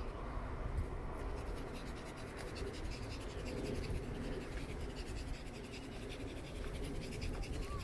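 Steady low rumble with a dense scratchy rattle of small clicks, the sound of a camera riding on a moving bicycle.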